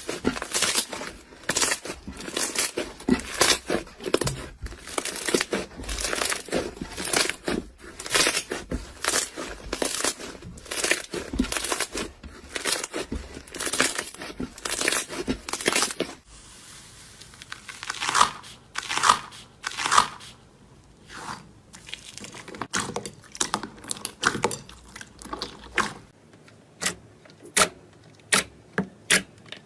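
Crunchy material being crushed and squeezed, giving dense rapid crackling. About halfway through it changes abruptly to slower, separate pops and clicks, which thin out further near the end.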